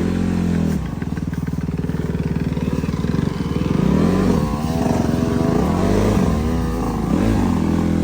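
Dirt bike engine running: held fairly steady at first, then revved up and down several times in the second half as the bike rides the trail.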